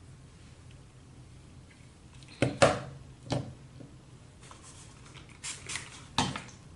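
A few sharp clicks and knocks from tools and hair accessories being handled, the loudest a quick pair about two and a half seconds in, then more scattered taps over a faint steady hum.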